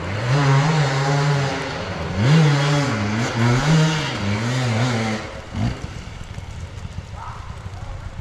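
Enduro motorcycle engine revving up and down repeatedly, its pitch rising and falling several times. About five seconds in it drops away to a quieter, rougher background.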